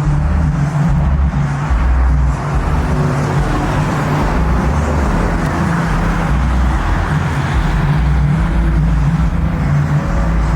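Vehicle noise with a heavy low bass throb that comes and goes unevenly, under a steady noisy wash.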